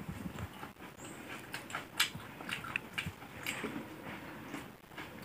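Close-up crunchy chewing and handling of crispy fried fritters and salad, a scatter of irregular crackles and clicks with a louder crack about two seconds in and another at the end.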